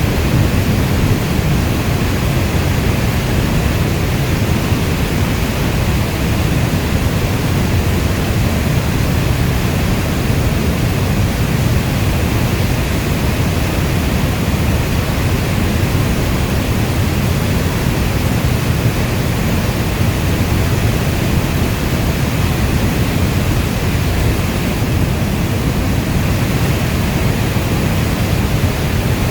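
Steady rainstorm: a dense, even wash of rainfall, weighted toward the low end, with no single drops, thunderclaps or other events standing out.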